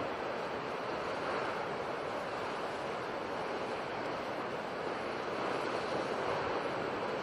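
Sea surf washing in a steady, continuous rush that swells slightly about five seconds in.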